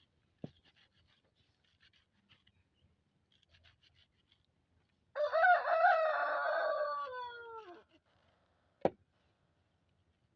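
A rooster crowing once, a single drawn-out call that falls in pitch at the end. A sharp knock follows near the end.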